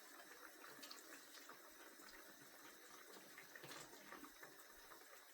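Faint simmering of a pot of curry chicken feet on the stove: a low, even hiss with a few soft ticks of bubbling.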